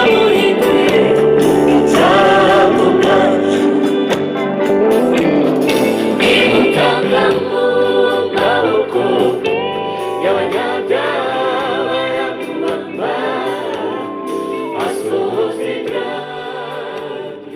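Gospel choir singing with instrumental accompaniment, slowly fading.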